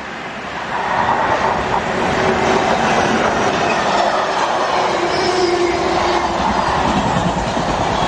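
A train running past on the rails, getting louder over the first second and then holding steady, with a few faint steady tones over the rolling noise.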